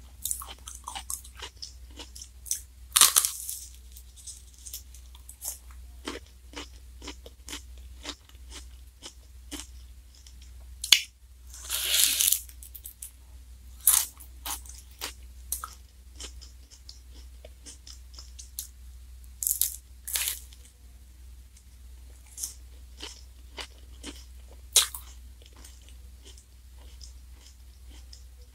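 Close-up chewing and crunching of a black wafer ice cream cone (Glico Wings J-Cone Black & Pink), with a handful of louder crisp crunches among many small mouth clicks, over a steady low hum.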